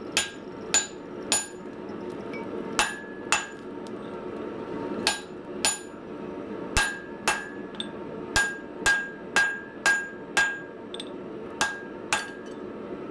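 Blacksmith's hand hammer striking hot steel on an anvil: about sixteen blows in uneven groups of two to five, each with a short metallic ring. Forging a small hammer head, drifting the eye to keep its shape.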